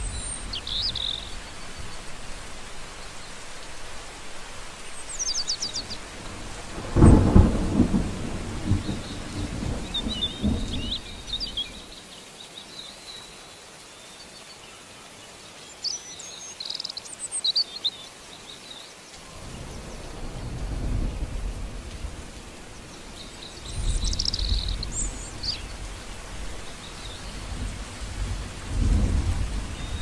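Steady rain falling on garden shrubs and grass, with several low rumbles of thunder, the loudest about seven seconds in.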